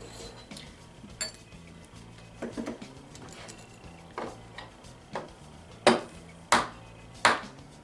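Glassware and bar tools clinking and knocking on a kitchen counter while a cocktail is being put together: a series of irregular sharp clinks and taps, the three loudest near the end.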